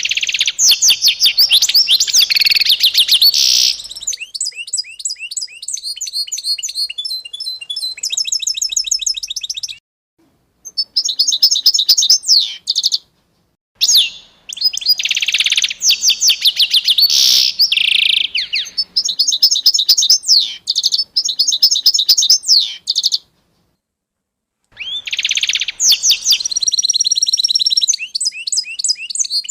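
Songbird singing loud, fast, high-pitched trills and chirps in long phrases, broken by a few sudden complete silences.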